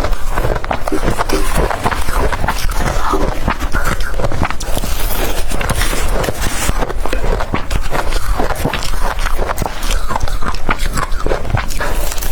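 Close-up crunching of blender-crushed ice being bitten and chewed: many quick crisp crunches in a steady run.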